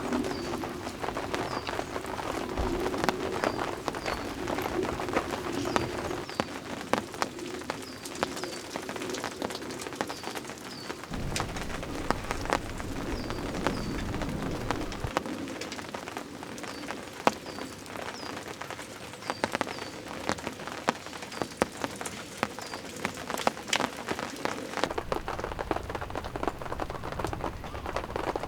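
Steady rain with individual drops tapping sharply on a surface. A small bird gives short high calls, often in pairs, every second or two.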